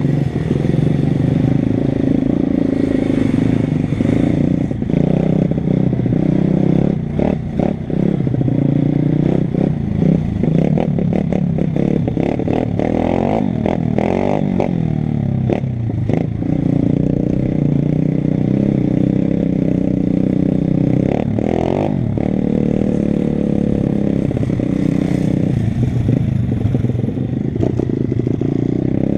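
Pit bike engine running under a rider, its pitch rising and falling as the throttle is worked, with rattling knocks from the bike, clustered about a third of the way through.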